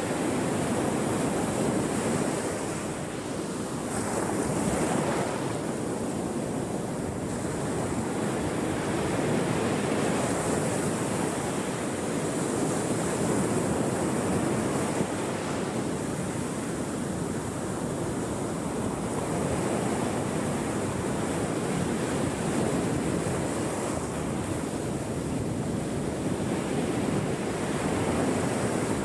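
Ocean surf: a continuous wash of breaking waves that swells and eases every few seconds, with some wind noise.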